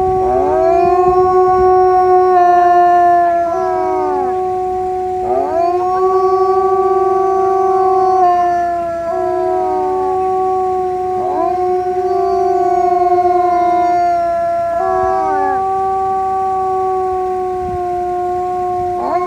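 Several wolves howling in chorus: long overlapping howls, some held on a steady pitch while others rise, hold and fall away every few seconds.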